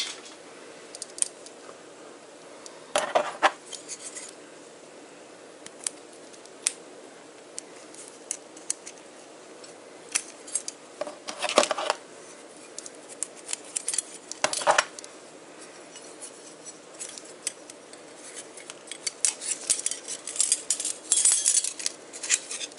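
Lightweight 7075 aluminium alloy camping utensils and their small carabiner clinking and clicking as they are handled: a few separate clicks, then a denser run of jangling near the end.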